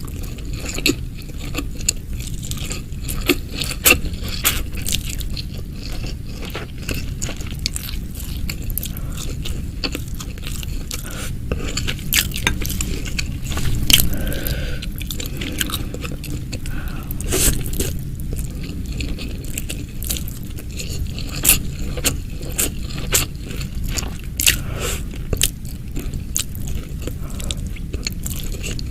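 A person eating close to the microphone: biting and chewing, with many irregular sharp crunches and clicks.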